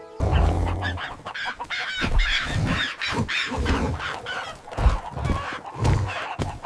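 Farmyard poultry sound effects: chickens and geese clucking and honking in a quick, irregular jumble, with several low thuds mixed in.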